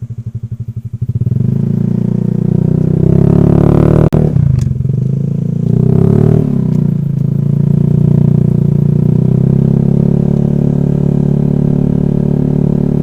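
Honda Vario scooter's single-cylinder engine running under way, getting louder about a second in as it picks up speed, with its pitch rising and falling a couple of times. A sharp click about four seconds in.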